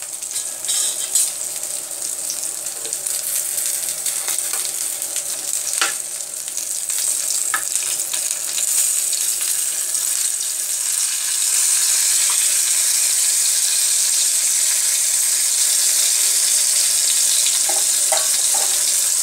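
Stuffed bitter gourds (karela) sizzling in hot oil in a pan, with a few sharp clicks and scrapes as a spatula turns them over. The sizzling gets louder and steadier about halfway through.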